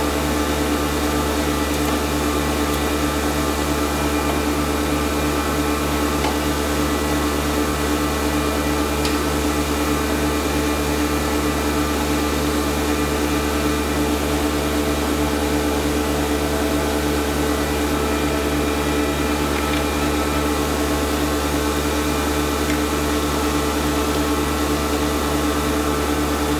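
Ace shop furnace running just after start-up: a steady burner-and-blower drone with a constant hum and a fast, even pulsing throb low down.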